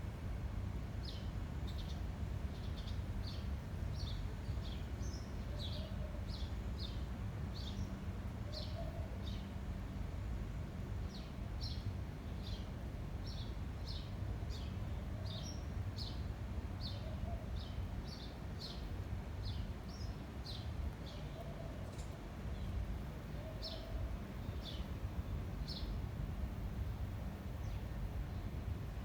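A small bird calling over and over with short, high, falling chirps, about two or three a second, which stop near the end. Under it runs a steady low rumble of wind.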